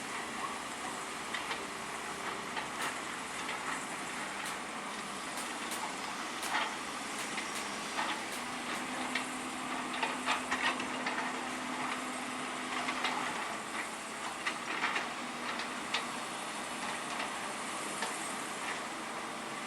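Heavy construction machinery working: a steady noisy din with scattered clanks and knocks, and a faint steady hum in the middle.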